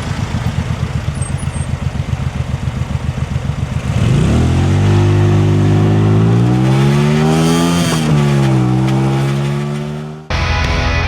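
Sport bike engine ticking over with a low, pulsing beat, then accelerating about four seconds in, its pitch climbing steadily. Near eight seconds it dips and settles, as at a gear change, then runs steadily. Guitar music cuts in near the end.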